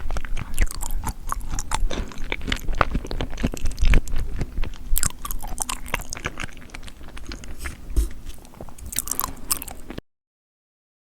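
Close-miked eating of seafood: crunchy chewing and biting with many sharp little clicks and pops, cutting off abruptly to dead silence about ten seconds in.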